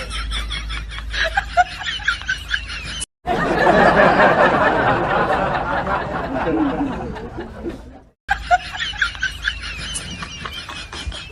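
People snickering and laughing, in short stretches broken by two abrupt cuts to silence.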